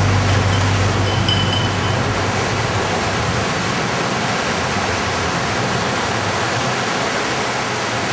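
Steady rushing noise of inline skating at speed: wind over the microphone and skate wheels rolling on pavement. A low hum fades out about two seconds in.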